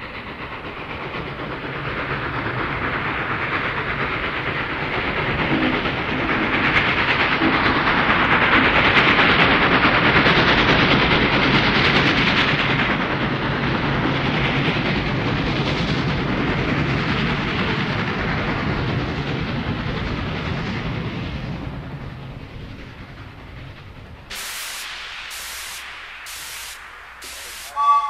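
A train running past: a steady rail clatter that swells over the first several seconds, stays loud for a while and fades away after about twenty seconds. It is followed near the end by about five sharp, evenly spaced clicks.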